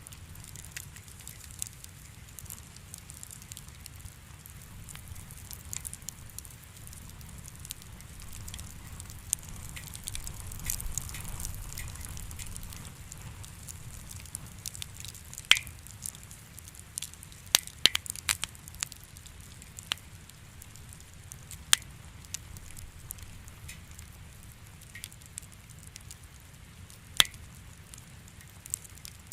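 Wood fire crackling in a fireplace: irregular small pops and ticks over a low steady rumble, with a few louder sharp snaps in the second half.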